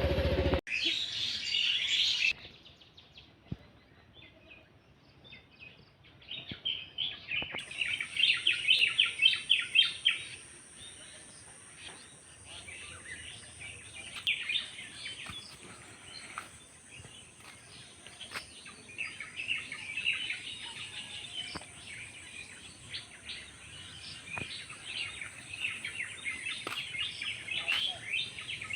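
Several small birds chirping and twittering in quick, overlapping calls, thickest about a quarter of the way in and again through the last third.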